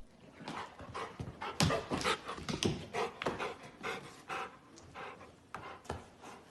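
A pet animal making quick, irregular breathy sounds, about two to three a second, thinning out toward the end.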